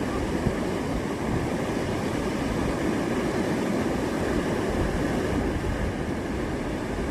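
Water running steadily over an overflow weir, a constant rushing noise with no breaks.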